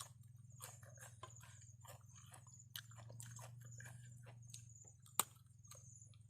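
Faint, close-up chewing of a mouthful of seafood papaya salad: wet mouth clicks and soft crunches, with one sharper click about five seconds in.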